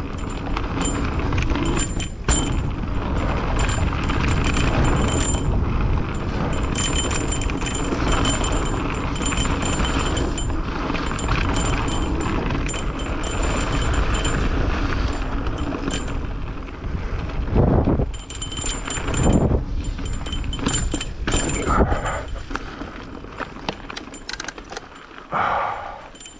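Mountain bike descending a rough trail, heard from the rider: continuous rumble of tyres and wind, with the chain and frame rattling and clattering over bumps. Several harder knocks come near the end as it slows.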